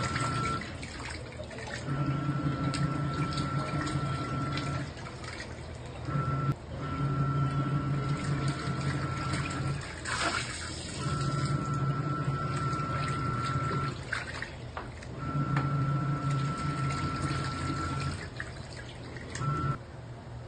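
Hanabishi automatic washing machine agitating a load in water: the motor runs with a steady hum and whine for about three seconds, stops for a second or so, then starts again, five times over, with water sloshing throughout. About ten seconds in, during a pause, there is a brief louder splash.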